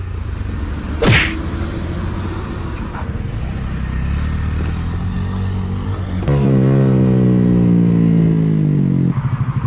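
Vehicle engine running with a steady low rumble, and a quick falling whoosh about a second in. About six seconds in, a loud pitched drone starts and lasts about three seconds, sagging slowly in pitch, before the engine settles into a pulsing beat.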